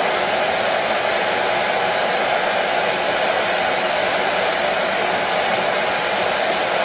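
Washing machine running: a steady, even noise strongest in the lower middle, with no rhythm or breaks.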